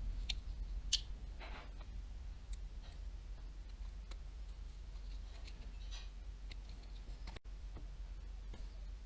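Small, sharp clicks and taps of little parts and hand tools being handled while a baitcasting reel is worked on, irregular, with the strongest about a second in, over a steady low hum.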